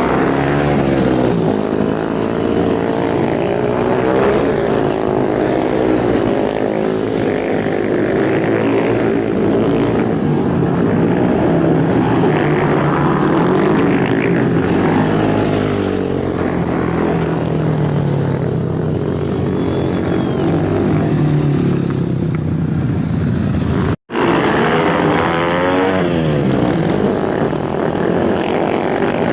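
Motorcycle engines running and revving, their pitch rising and falling over and over, with a brief cut in the sound about 24 seconds in.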